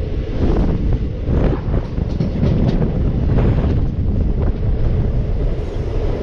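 Express passenger train running at speed, its wheels rumbling on the rails with a few sharp knocks, and wind buffeting the microphone at the open door.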